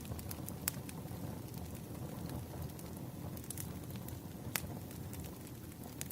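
Wood fire burning: a steady low rumble of flames with scattered sharp crackles and pops from the burning logs, the loudest pop about four and a half seconds in.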